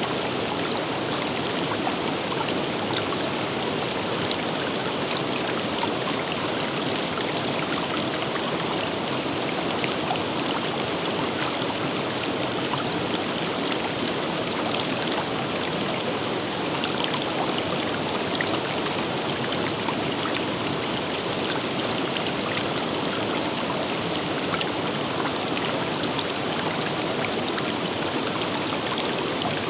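A river in a forest running steadily: an even rush of flowing water with small splashes and trickles.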